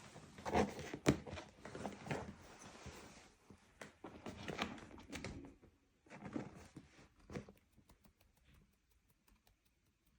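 Cat clawing at a chair's upholstery: irregular bouts of scratching and tearing with sharp clicks, ending in a few short scrapes and faint scattered clicks.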